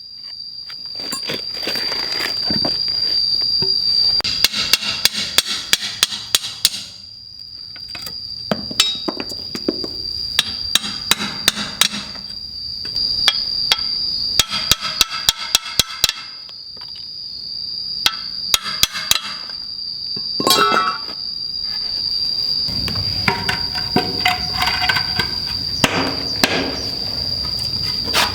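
Hammering in several quick bursts of sharp, fast strikes, some with a slight ring, between short pauses. A steady high insect drone runs underneath throughout.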